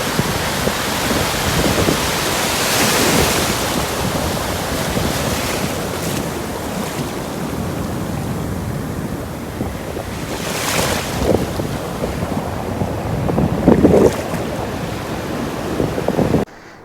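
Ocean surf breaking on a beach, with wind buffeting the microphone as a low rumble; the wash swells louder a few times.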